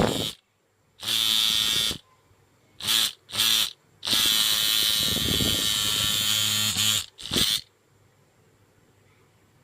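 Small motor of a homemade model motorcycle engine buzzing at a steady pitch in repeated on-off bursts. First a brief one, then about a second, two short blips, a run of about three seconds, and a last short blip.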